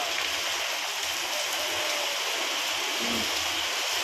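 Heavy rain pouring steadily onto a wet paved street.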